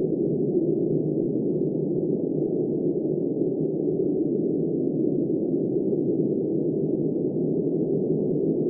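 Blizzard wind blowing steadily, a dull, muffled rush with no highs and no gusts or breaks.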